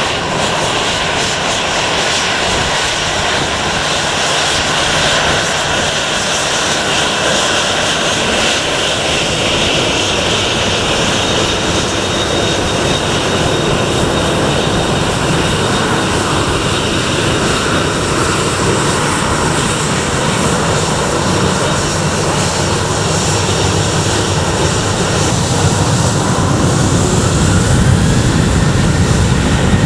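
Departing airliner's engines at takeoff power: a loud, steady engine noise with a high whine over it, growing louder near the end.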